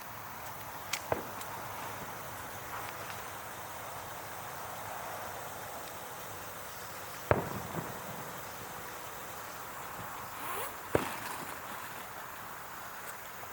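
Aerial fireworks bursting: a few sharp, spaced-out bangs (a quick pair about a second in, the loudest about halfway, another near the end) over a steady background hiss.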